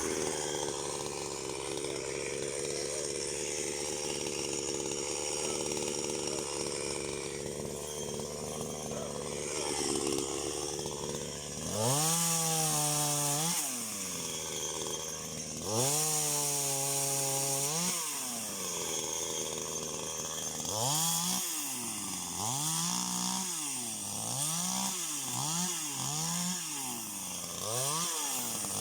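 Two-stroke chainsaw idling steadily. About twelve seconds in it is revved up hard and held twice, then given a run of quick short revs, about one a second.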